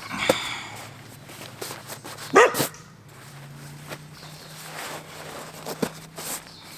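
Short animal calls, the loudest about two and a half seconds in, then a low steady hum.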